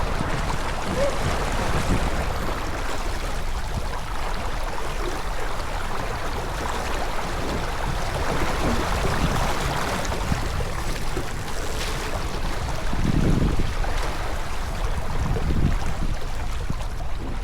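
Water rushing along the hull of a J24 sailboat under way, with wind buffeting the microphone.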